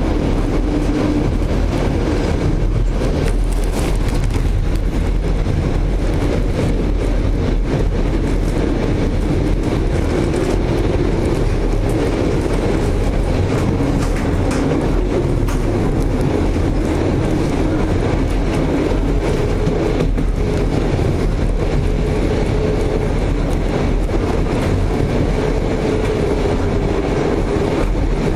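Passenger train running at speed, heard at a carriage window: a steady rumble of wheels on the rails, with a few brief sharper clicks.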